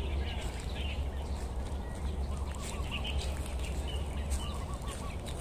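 Small birds chirping in scattered short calls, with a couple of quick runs of little notes, over a steady low rumble.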